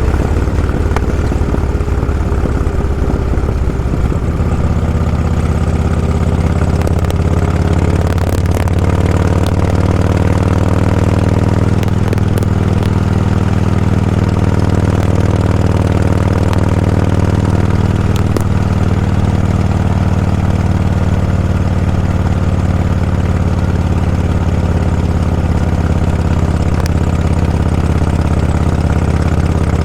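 A vehicle engine running steadily, a loud low hum with no break.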